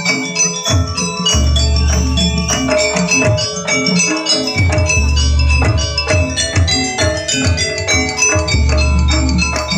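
Live jaranan gamelan music: struck bronze metallophones ring out in a dense, fast pattern over drumming. A deep gong-like boom swells and sustains about every three to four seconds.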